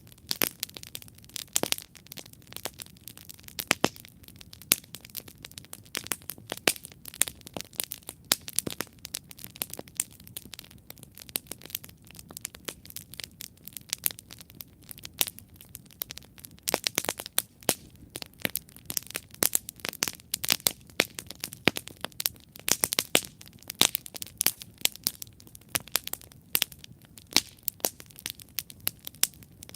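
Wood campfire burning and crackling: many irregular sharp pops and snaps, several a second, over a low steady hiss of the flames.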